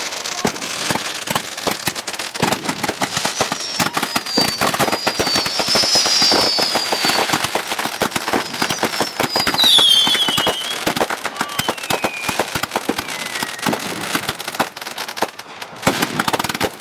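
Fireworks going off in quick succession: dense crackling and popping bangs, with a few whistles falling in pitch.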